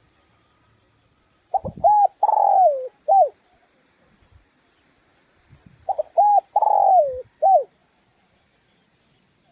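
Spotted dove cooing in two phrases about four seconds apart. Each phrase is two short notes, then a long drawn-out coo that falls in pitch, and a clipped closing note.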